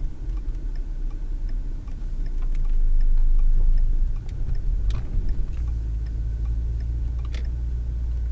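Car turn-signal indicator ticking steadily about twice a second over the low engine and road rumble in the cabin. The rumble swells for a couple of seconds around the middle, and two sharp knocks come in the second half.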